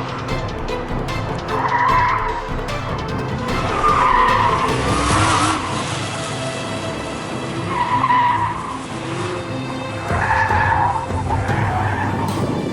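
Pontiac G8 engine running hard while its tyres squeal in short bursts about four times, the sound of a car cornering at the limit of grip on an autocross course. Music plays underneath.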